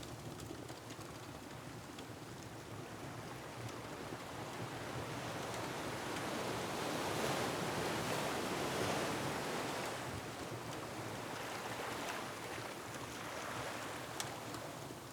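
Ocean surf with wind: a wave swells up to a peak about halfway through and then recedes. A few faint wood-fire crackles come near the end.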